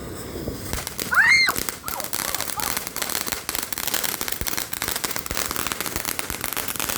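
Firework crackling: a rapid, dense run of small pops, many per second, starting about a second in and going on steadily.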